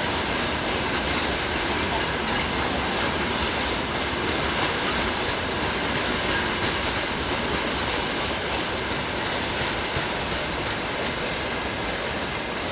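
Freight train of open gondola wagons rolling past: a steady rumble with the clatter of wheels over the rails.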